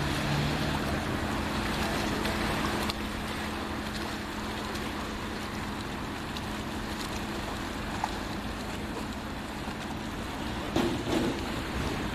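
Boat's engine running steadily under wind and water noise, heard on board. The engine hum drops away about three seconds in, leaving the wind and water noise, with a couple of short louder sounds near the end.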